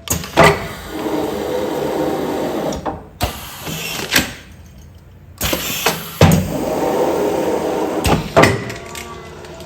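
Automatic food-container sealing machine cycling twice. Each cycle starts with a sharp clunk, runs for two or three seconds and ends with another clunk, with a short pause between the two.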